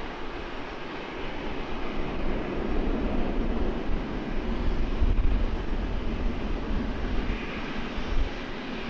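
Jet engine noise from a Delta Airbus A321 airliner landing and rolling out on the runway: a steady noise that swells to its loudest about five seconds in and then eases.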